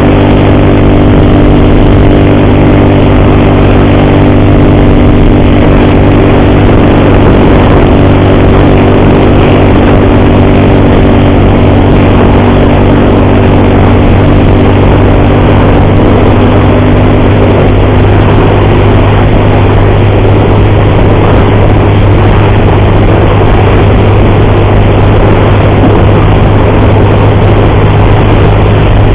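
Motorcycle engine running steadily while riding, with a loud, even engine note whose higher tones fade about two-thirds of the way through. The rider calls the bike's noise horrible and puts it down to the timing chain.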